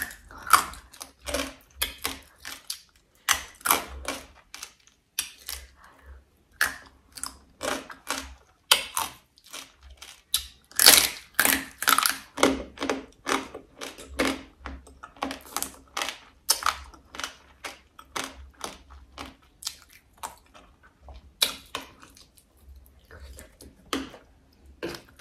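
Close-miked chewing and crunching of braised crab, with irregular crisp crunches a few times a second.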